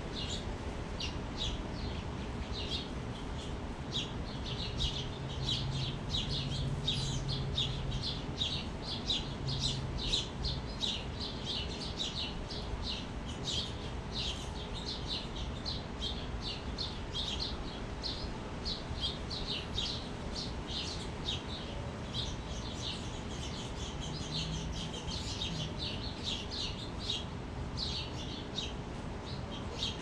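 Birds at a feeder and bird bath chirping rapidly and continuously, many short overlapping chirps.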